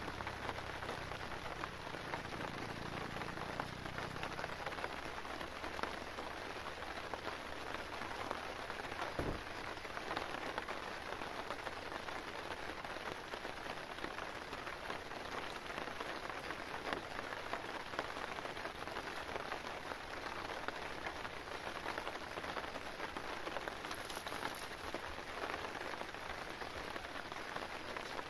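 Steady rain falling on the tarp shelter overhead and the ground around it, a continuous dense hiss of drops.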